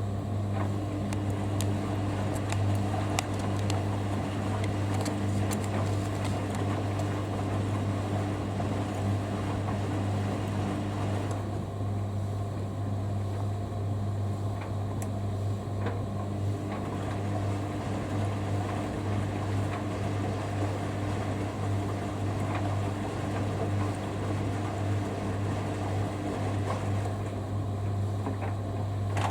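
Hoover Dynamic Next washer-dryer running during its rinse stage: a steady low hum with fainter higher tones. Some of the higher tones drop out for a few seconds midway, then return.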